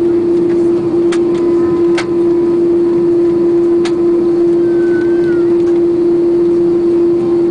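Steady cabin drone inside an Airbus A330 airliner: a loud constant hum over a haze of noise, with a few light clicks.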